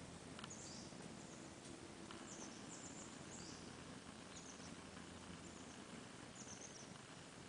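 Quiet forest ambience with faint, high-pitched chirps of small birds, short calls scattered every second or so.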